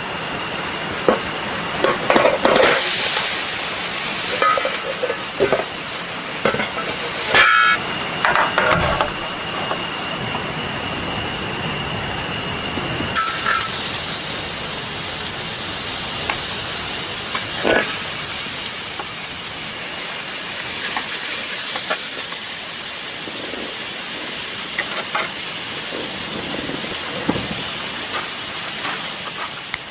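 Steady sizzling hiss of food frying over a campfire, with several clinks of metal cookware in the first third. The hiss grows fuller about halfway through.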